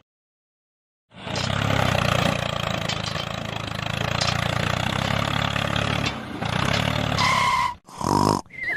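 Small engine running steadily, starting after about a second of dead silence. Two short high beeps come near the end.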